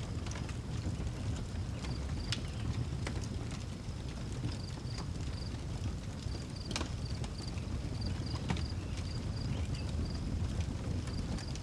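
Outdoor wood fire crackling, with scattered sharp pops over a low steady rumble. Crickets chirp in a steady high pulse from about four seconds in.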